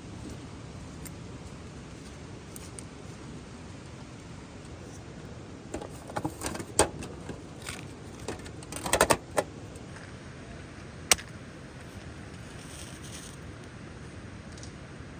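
Light clinks and clatters of small hard objects being handled, bunched together a little before the middle and ending in a quick rattle, then one sharp click a couple of seconds later, over a steady background hiss.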